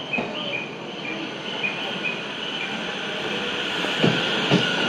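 E231-series electric commuter train pulling out of the station, its cars rolling past with steadily rising wheel and running noise. A few sharp knocks come near the end as the wheels pick up speed.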